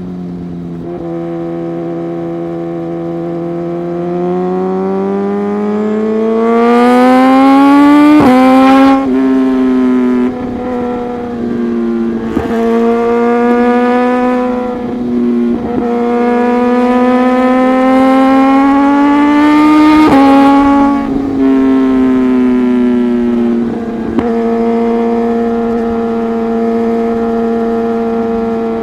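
Liter-class superbike's inline-four engine through an aftermarket exhaust under way: it climbs in pitch while accelerating, drops sharply at an upshift about 8 seconds in and again about 20 seconds in, and runs steadily between, with a few short dips when the throttle is eased.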